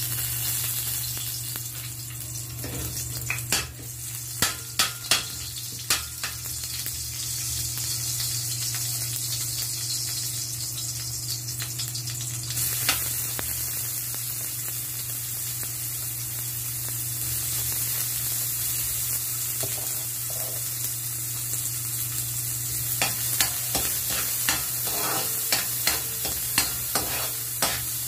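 Chopped garlic and onion sizzling in hot oil in an aluminium wok. The sizzle grows stronger about halfway through, when the onion goes in. A few sharp knocks come early, and near the end a metal spatula scrapes and taps against the wok as the mixture is stirred.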